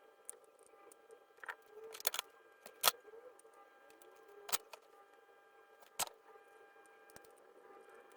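A handful of sharp clicks and taps at irregular intervals, the loudest about three seconds in, over a faint steady whine made of several pitches.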